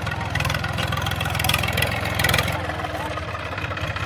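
A tractor's diesel engine running steadily, with people's voices over it.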